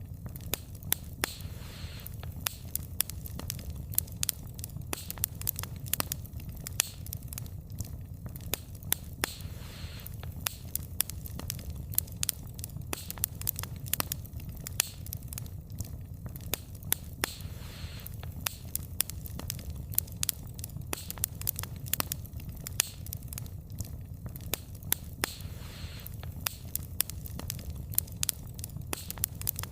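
Wood fire burning with a steady low rumble and irregular sharp crackles and pops of the logs, with soft hissing now and then.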